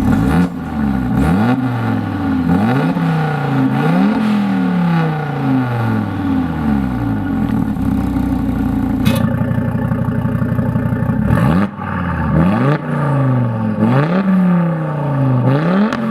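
Audi TT RS turbocharged five-cylinder engine through an AWE Tuning exhaust, revved over and over, about once a second, each rev rising sharply and falling back. Midway it settles to a steady run for a couple of seconds, then the revving starts again.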